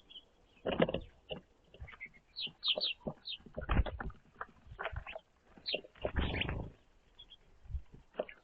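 Small birds at a winter feeder giving short, high chirps in scattered runs, with several louder noisy bursts, about a second in, near the middle and at around six seconds.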